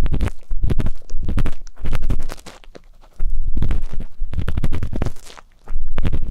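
Ear pick scratching and rubbing close against a binaural microphone's ear, in repeated strokes with a heavy muffled rumble and short pauses between them.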